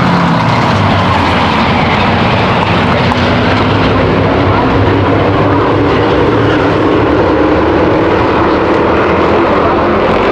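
V8 race engines of stock cars and trucks running at speed around an oval track, a loud continuous drone whose pitch sags slowly and then climbs again.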